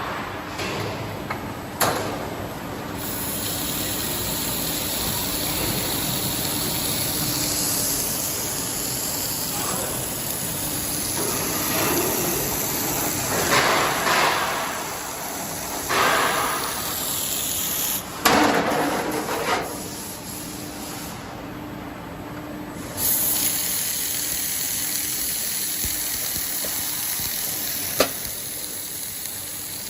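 Sheet-metal production machinery running with a steady hiss, louder hissing surges several times in the middle, and one sharp click near the end.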